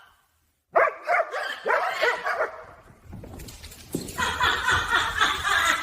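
An animal calling in a series of short pitched calls, starting about a second in, with a denser run of calls from about four seconds in.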